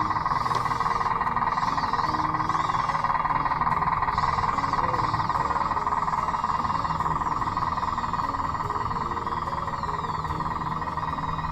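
Steady whine of a remote-control Bruder D5 bulldozer's electric drive motors and gearboxes running.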